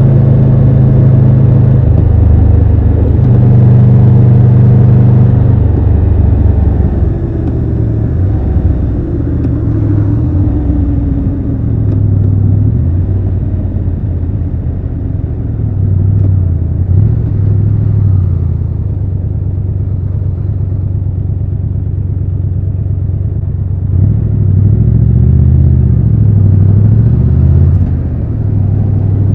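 Triumph Tiger 1200 Rally Pro's three-cylinder engine running under the rider. It holds steady at first, goes quieter from about seven seconds in with its pitch rising and falling several times, and is louder again near the end.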